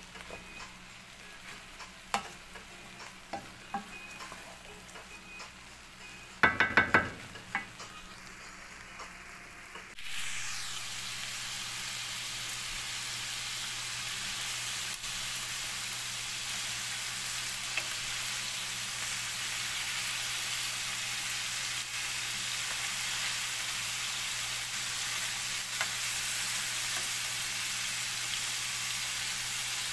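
A wooden spoon stirring rice in a pot, with light scrapes and clicks, broken by a brief burst of loud ringing knocks about six and a half seconds in. About ten seconds in it gives way suddenly to a steady sizzle of meat pieces frying in oil in a ridged grill pan, with occasional ticks of metal tongs turning them.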